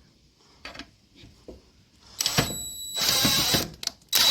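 A power tool running in short bursts to drive the engine-mount bolts, with a steady high whine, starting about two seconds in and again near the end; faint ticks and clinks of hand work before it.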